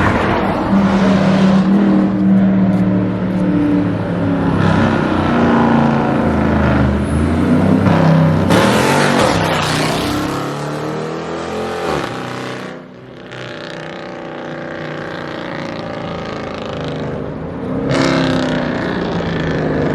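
2017 Dodge Charger R/T's 5.7-litre HEMI V8 running through a full 3-inch straight-pipe exhaust with no mufflers, crazy loud. It revs and accelerates with the pitch climbing, falls away about two-thirds of the way through into a steadier, lower drone, then climbs again near the end.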